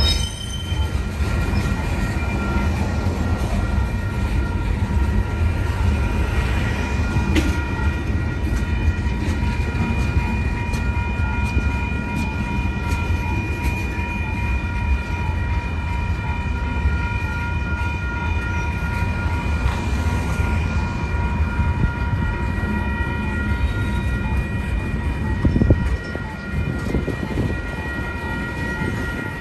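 Freight train tank and hopper cars rolling through a road grade crossing: a steady low rumble of wheels on rail with irregular clicks. The crossing's warning bell rings steadily over it.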